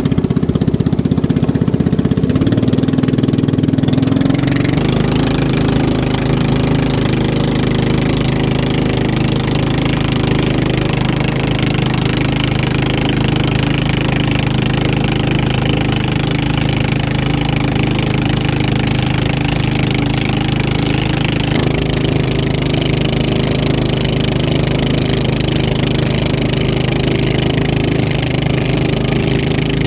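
Motorboat engine running steadily under way, with its tone changing abruptly a few seconds in and again about two thirds of the way through.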